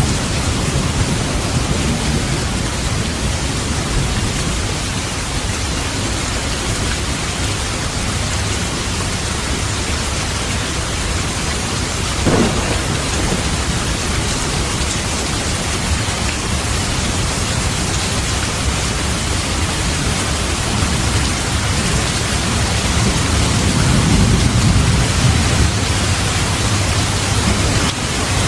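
Heavy rain falling steadily, with low rolls of thunder rumbling near the start and again swelling late on, and a short crack of thunder about twelve seconds in.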